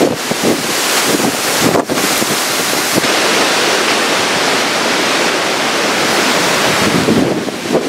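Hurricane-force wind with driving rain: a loud, steady rushing noise with wind buffeting the microphone, briefly dropping about two seconds in.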